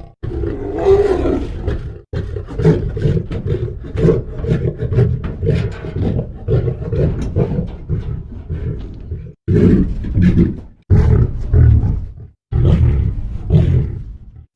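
A big cat roaring and grunting in repeated deep, rough calls, in several bouts broken by short pauses, the last few bouts shorter and closer together.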